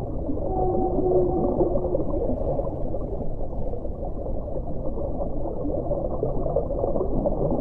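Underwater ocean ambience, a dense low rumble and hiss, with a faint whale call of two steady tones in the first two seconds.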